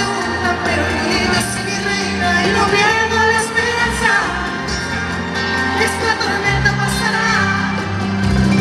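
Spanish-language pop song playing, with a voice singing a gliding melody over bass and accompaniment.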